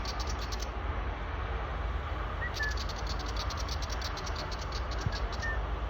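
Willie wagtail giving its fast, rattling scold chatter: a short run just as it begins, then a longer run of about two seconds near the middle, with a couple of brief chirps.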